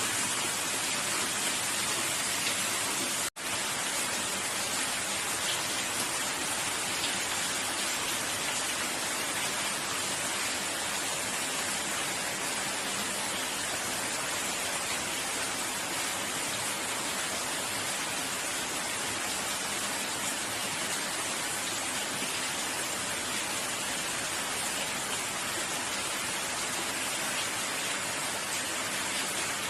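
Steady, even rain hiss with no distinct drops standing out. The sound cuts out for an instant about three seconds in.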